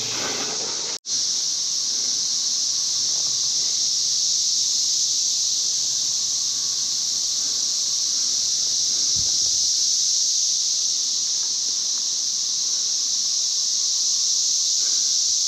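Dense chorus of cicadas: a loud, steady, high-pitched buzzing drone with no letup, broken only by a momentary dropout about a second in.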